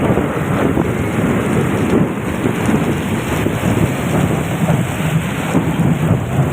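Rain falling steadily: a dense, even rushing noise, heaviest in the low end.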